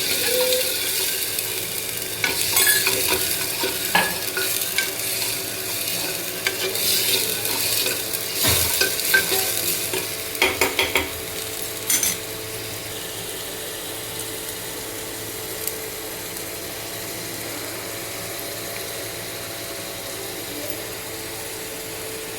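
Chicken frying in a pan with a steady sizzle, while a spatula stirs and scrapes it with repeated clinks against the pan. The stirring stops a little past halfway, leaving only the sizzle.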